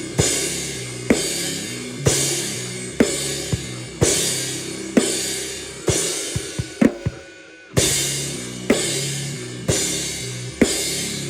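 Noise-rock music: drums strike about once a second, each hit ringing out in a long cymbal wash over a sustained low bass line. A little past the halfway point the wash thins to a few quick hits and a brief drop-out, then the pattern comes back in.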